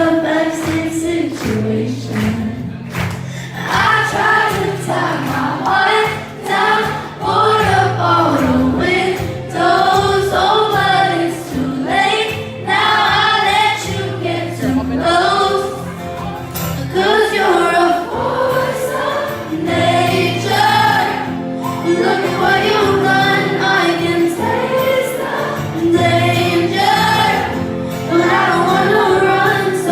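Live pop song in concert: a woman singing the lead melody over a full band with steady bass.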